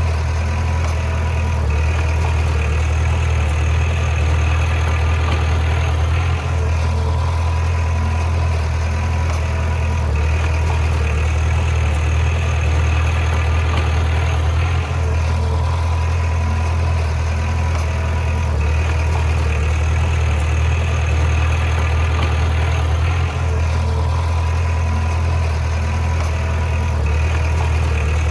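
The diesel engine of a heavy earthmoving machine, running steadily at a low, even pitch, with three brief dips in level about eight seconds apart.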